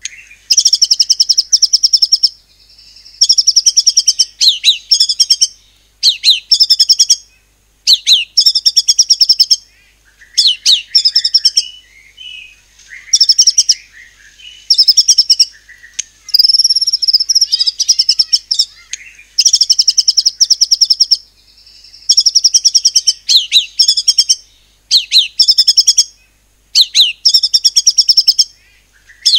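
White-rumped shama singing in a run of loud rapid-fire phrases, about a dozen bursts of fast repeated high notes, each a second or two long with short pauses between. This is the 'nembak' style of delivery that mimics cungkok and cililin calls.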